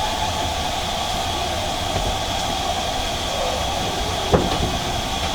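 Steam-hauled train giving a steady hiss and rumble, with a single sharp knock about four seconds in.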